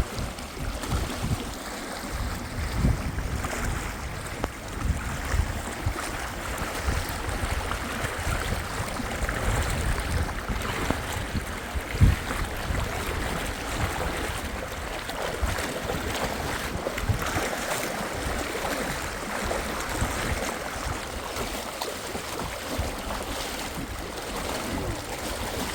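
Rushing river water, a steady noisy rush, with wind buffeting the microphone in uneven low rumbles and a single sharp thump about halfway through.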